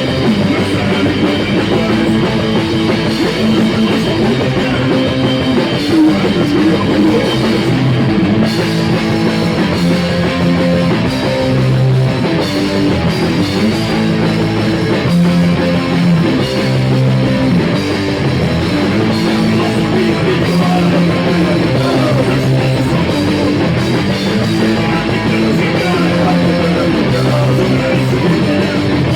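Rock band playing live: guitar and drum kit in a loud, steady instrumental passage.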